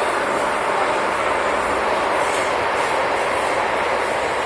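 Hong Kong MTR train running between stations, heard from inside the carriage: a steady rush of wheel and track noise.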